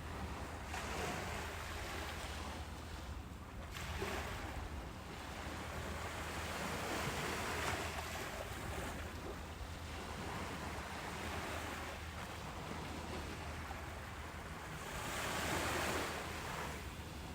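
Ocean waves breaking and washing up a beach, the surf rising and falling every few seconds over a steady low rumble, with the biggest wave near the end.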